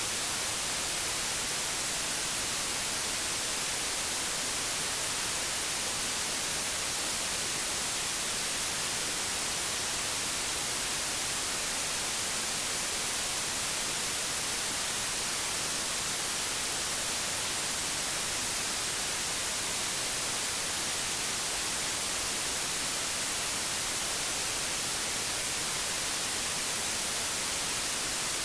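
Old analogue television static: a steady, even hiss, brightest in the treble.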